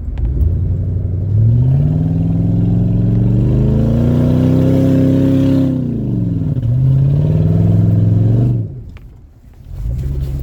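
Jeep Commander's engine revving hard while driving through snow. Its pitch climbs steadily for several seconds and falls back, climbs and holds again, then drops off sharply near the end before picking up.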